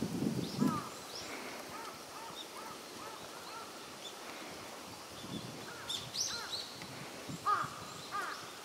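Wild birds calling outdoors: a scatter of short chirps and call notes, some higher and some lower, from several birds.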